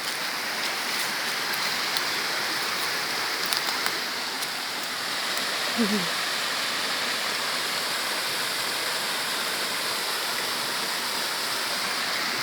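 Rushing water of a forest river and waterfall: a steady, even hiss, with one short falling tone about halfway through.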